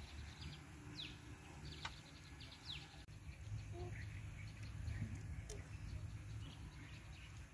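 Quiet outdoor background with a few faint bird chirps, short falling notes. There is a light click about two seconds in.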